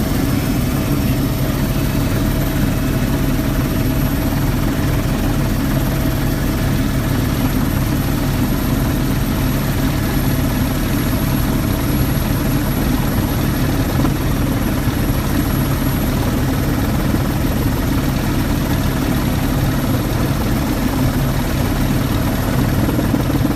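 Helicopter in flight heard from inside the cabin: a steady, loud engine and rotor drone with a thin high whine over it.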